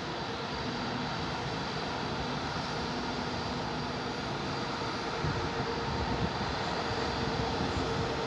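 Steady rumble of a train running slowly, heard from on board, with a faint steady hum under it; the low rumble grows a little about five seconds in.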